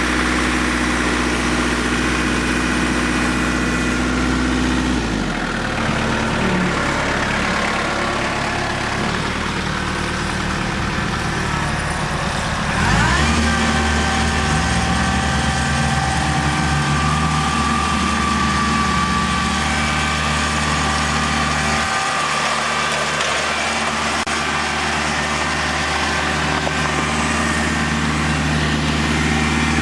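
Diesel tractor and Jeep engines running steadily. One engine drops in pitch about five seconds in, then revs up again around thirteen seconds in and settles into a steady run.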